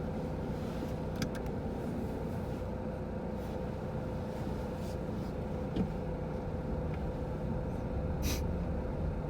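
A car running, a steady low engine and road rumble, with a few faint ticks.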